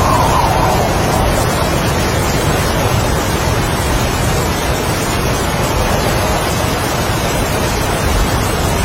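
Heavy rain and strong wind in a steady, dense rush. A gust swells briefly at the start and fades.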